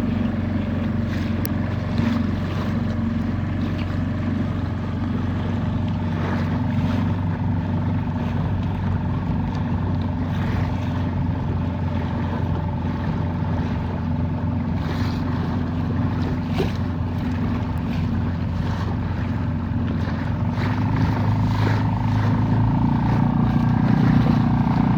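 A dinghy's outboard motor running steadily under way, growing a little louder near the end.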